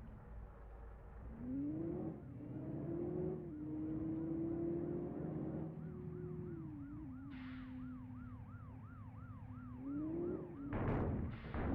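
A vehicle's motor runs with a steady pitched whine that rises about a second in and then holds, dipping slightly now and then. For several seconds in the middle and later part a warbling siren-like tone repeats about three times a second. A brief loud rush of noise comes near the end.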